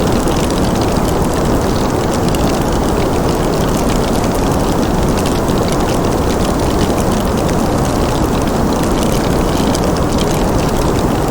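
Fireplace wood fire crackling with many small, fast pops, over a steady low rushing noise.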